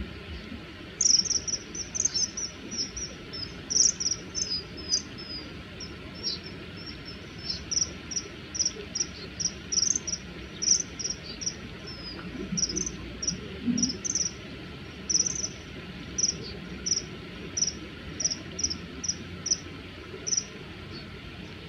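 Common kingfishers calling: a long series of short, high-pitched notes, about two a second, sometimes running together in quick runs. These are the threat calls of males disputing a territory.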